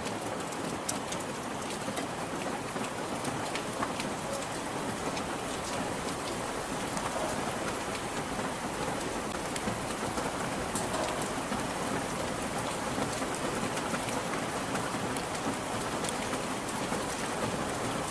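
Steady rain falling, with individual drops ticking sharply on a hard surface now and then.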